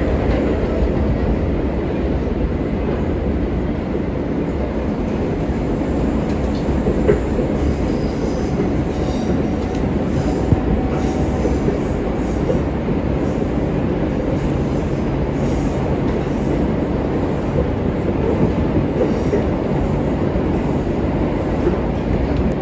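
R143 subway car running at speed between stations, heard from inside: a steady rumble of wheels on rail and motors. A faint high wheel squeal comes and goes in the middle, with a couple of small knocks.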